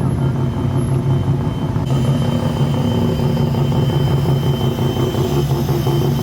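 Modified car's engine and exhaust running steadily at low revs, a deep even drone.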